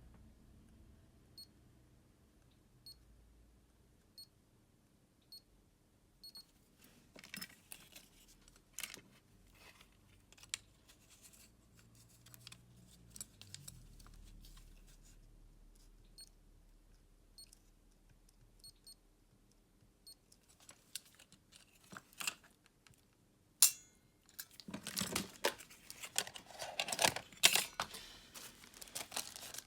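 Hands working on a remote control: scattered sharp plastic clicks and handling noises, then a stretch of dense crackling and rustling in the last few seconds. Faint high ticks repeat about every second and a half at the start.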